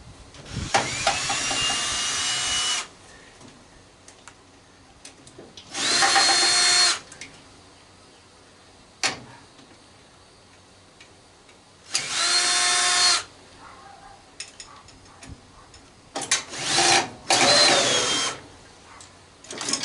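A cordless drill/driver running in five short bursts, each starting with a rising whine as the motor spins up, while it backs out the screws that hold a microwave's circuit board. The first burst is the longest, about two seconds; the last two come close together near the end.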